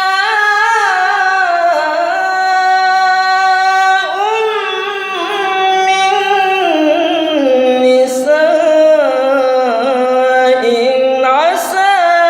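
A man's voice reciting the Quran in melodic tilawah style: long, ornamented held notes that turn up and down in pitch, with short breaks for breath or a new phrase about four and eight seconds in.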